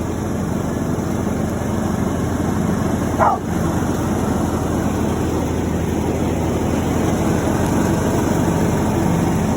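John Deere E110 lawn tractor's 19 horsepower single-cylinder engine running steadily. A dog gives one short yelp about three seconds in.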